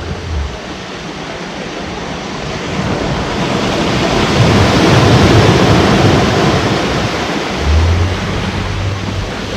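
Ocean waves at the shore: a wave surges in and breaks, the rush of water building to its loudest about halfway through and then easing off. A low steady hum comes back near the end.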